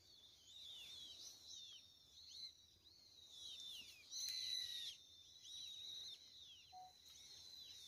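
Small birds chirping outside, faint: many short, overlapping calls that sweep down in pitch, busiest and loudest about four seconds in.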